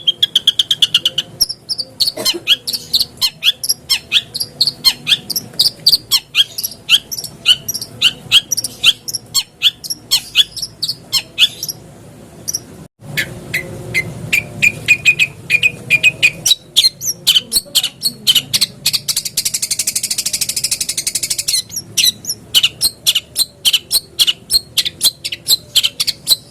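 Long-tailed shrike (cendet) singing a fast, chattering song of quick sharp notes, with a harsh buzzy stretch about three quarters of the way through and a momentary break near the middle.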